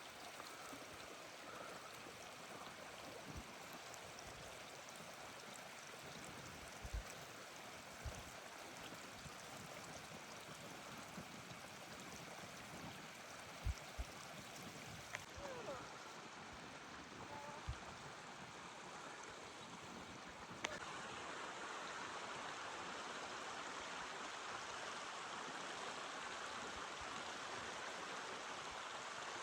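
Running water from a stream, a steady rushing hiss, with a few soft low thumps in the first half. About two-thirds of the way through the rushing steps up to a louder, steadier level.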